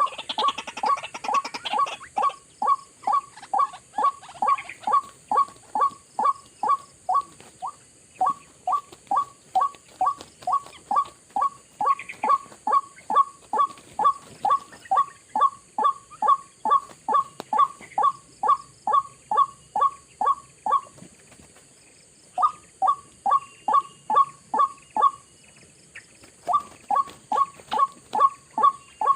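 White-breasted waterhen (ruak-ruak) calling: a long run of short, identical notes, about three a second, broken by a few brief pauses.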